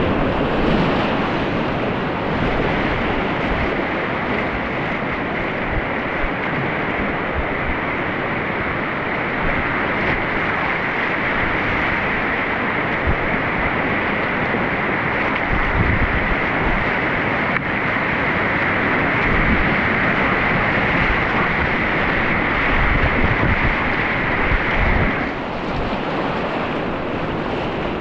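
Rushing mountain-stream water, a steady loud roar, with wind buffeting the microphone in low thumps. The rush eases slightly about three seconds before the end.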